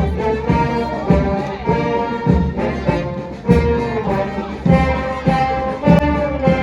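Brass band playing a tune in full, trumpets and trombones holding long notes over a steady drum beat of about two strokes a second.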